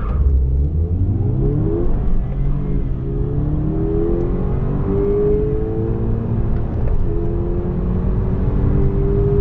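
Car engine under hard acceleration, its pitch climbing steadily and then dropping back at each of several upshifts.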